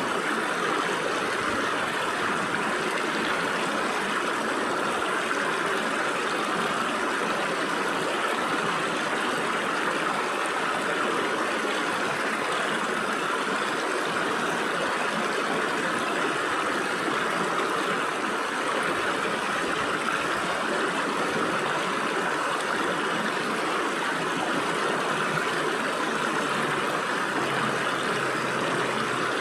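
Stream water running and splashing through gaps between rocks: a steady, even rush with no breaks.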